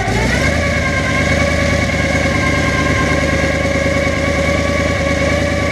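1979 Ford 460 big-block V8 idling steadily, with a steady whine over the idle. The engine is freshly repaired after a bent pushrod and collapsed lifter and is running on all eight cylinders, with its ignition timing still off.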